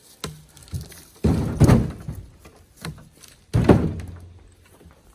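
Cherry firewood blocks being thrown onto a pile: a few light wooden knocks and two heavy thunks, one a little over a second in and one past three and a half seconds.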